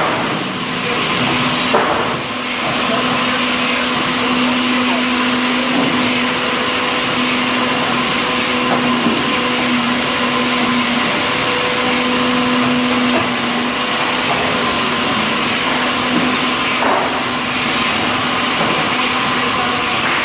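Sawmill log carriage machinery running: a steady mechanical noise with a hum that drops out and returns a few times, and a knock about two seconds in and another near the end.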